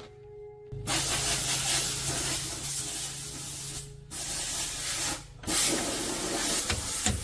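A steady spraying hiss starts about a second in and breaks off briefly twice, a little after the middle.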